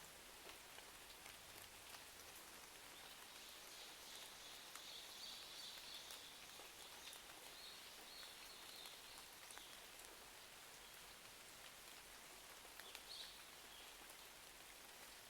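Quiet, steady rain with many scattered faint ticks. A faint high-pitched sound comes in a few seconds in, lasts several seconds, and returns briefly near the end.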